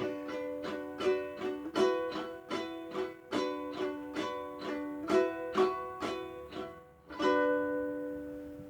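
Strummed acoustic string instrument playing the closing bars of a song: a run of chords, then a final chord about seven seconds in that rings out and fades.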